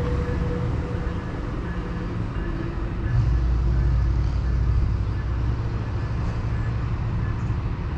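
Amtrak bilevel passenger train rumbling as it pulls away from the station platform. A deeper, louder low rumble swells about three seconds in and holds.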